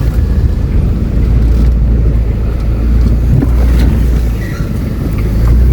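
Mercedes-Benz A160 (W168) running with a steady low rumble while being tested for a noise from the front end.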